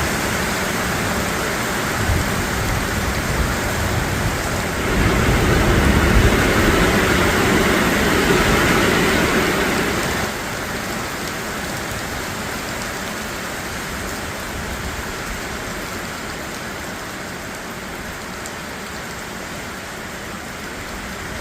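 Heavy rain pouring down, a steady rush of rain. It turns louder and fuller a few seconds in, then drops back suddenly about halfway through.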